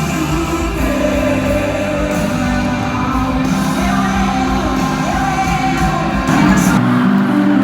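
Live worship music in a large hall: a band playing with singing over it. The deep bass drops away near the end.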